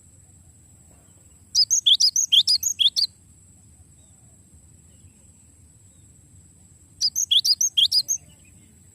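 Cinereous tit (gelatik batu) singing its rolling song: two quick runs of rapidly repeated high notes, about seven a second. The first run lasts about a second and a half and the second a little over a second, with a faint steady high whine underneath.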